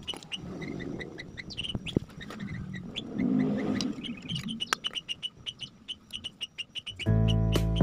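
A small bird chirping repeatedly in quick, even, high chirps over a low rumbling noise that swells about half a second in and more strongly around three seconds in. Music comes in near the end.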